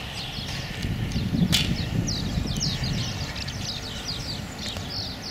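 Small birds chirping without a break, many quick high chirps sweeping downward, over a low rumble of wind on the microphone. A single sharp click comes about a second and a half in.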